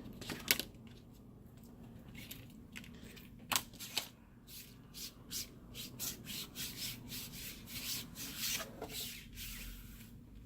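Handling of broken phone-screen glass and adhesive: a few sharp light clicks, then a run of short rubbing, scraping strokes from about halfway in to near the end.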